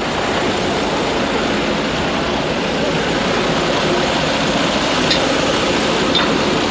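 Semi truck's diesel engine idling steadily after a hard start, with a few faint ticks late on.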